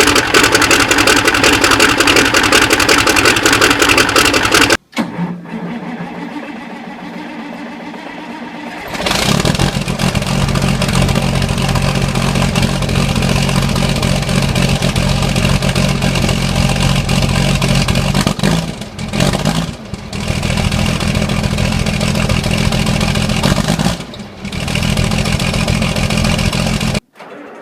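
Cold diesel engines starting and running, one after another. A loud engine with a fast, even firing rhythm stops suddenly about five seconds in. After a quieter stretch, another engine catches about nine seconds in and runs with a steady low hum, dipping briefly a few times before it stops suddenly near the end.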